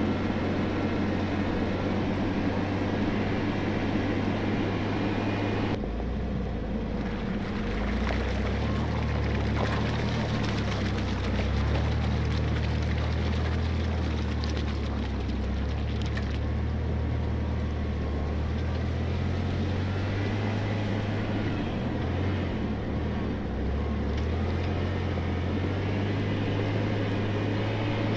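Recovery vehicle's engine running under load while driving, a steady low drone whose note shifts about six seconds in and several more times.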